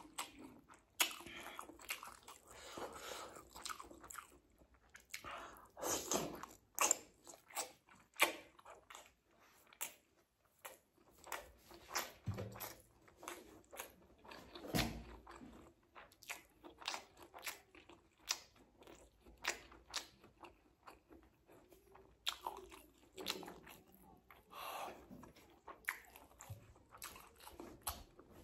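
Close-up eating sounds of rice and boiled-egg curry eaten by hand: chewing with irregular wet clicks and crackles, and fingers mashing egg into rice on a leaf plate.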